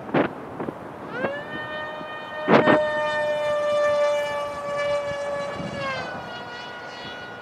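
Electric RC plane's Castle brushless motor and propeller running at high throttle: a steady high-pitched whine comes in about a second in, holds for several seconds, then dips in pitch near the end. Wind gusts buffet the microphone twice.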